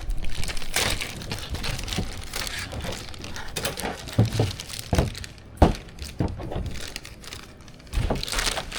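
Plastic packaging crinkling and rustling while parts are handled, with scattered clicks and knocks; the sharpest knock comes a little past halfway.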